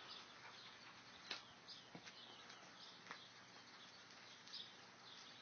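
Near silence: faint outdoor ambience with scattered short bird chirps and a few soft clicks.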